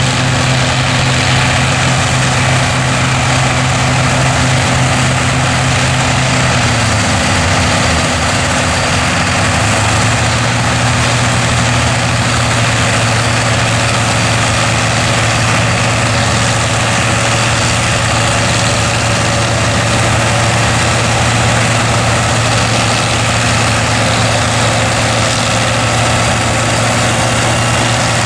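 Massey Ferguson tractor's diesel engine running steadily while working a forage harvester in silage, its pitch dipping for a couple of seconds about a quarter of the way in and then settling again, over a dense mechanical din.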